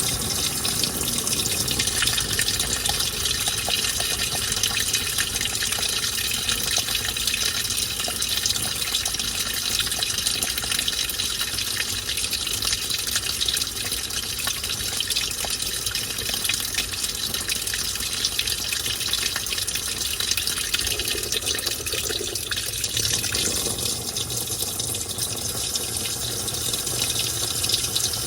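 Washing machine tub filling, with water gushing steadily into the drum.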